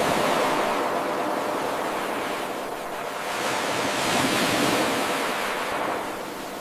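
Ocean waves washing onto a shore in a steady hiss, swelling, easing and swelling again. It is an 8-second wave recording played on a loop.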